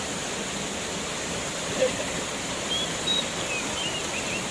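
Waterfall rushing steadily. A brief louder blip comes a little before two seconds in, and a few short high chirps follow in the second half.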